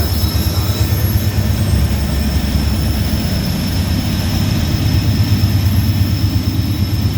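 GE CW44AC diesel-electric locomotives, whose V16 engines are working at full throttle to drag a loaded coal train up a steep grade, making a loud, steady, deep rumble.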